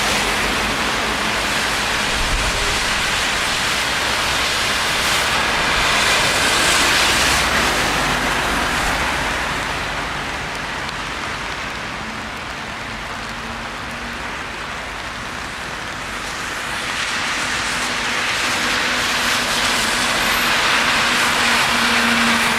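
Traffic passing on a rain-wet city street: a steady hiss of tyres and engines that swells as vehicles go by, dips in the middle, then builds again near the end.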